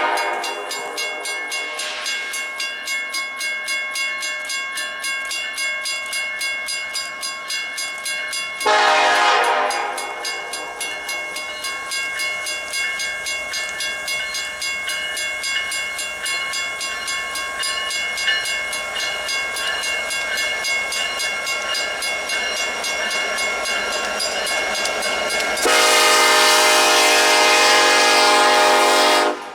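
Freight train rolling past with a steady clicking of wheels over rail joints, about two a second. The locomotive horn sounds a blast about nine seconds in and a long blast near the end that cuts off sharply.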